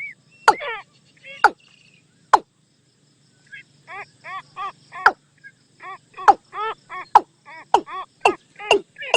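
Watercock calling: a run of repeated hollow, curved notes about three a second, mixed with sharp click-like notes.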